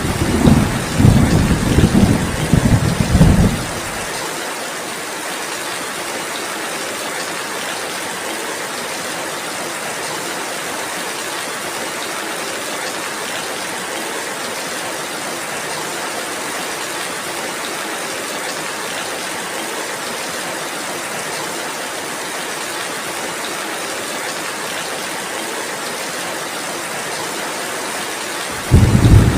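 Steady rainfall hiss, with a low rolling rumble of thunder for the first four seconds that cuts off, then starts again near the end.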